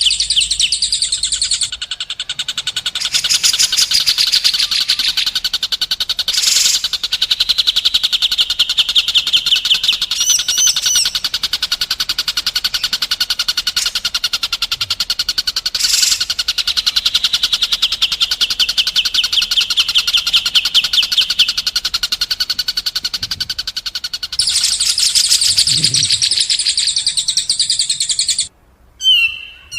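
A songbird singing long, rapid rolling trills of fast-repeated high notes, shifting from one trill to another every few seconds, with a brief break near the end. This is masteran: recorded song played to teach captive white-rumped shamas new phrases.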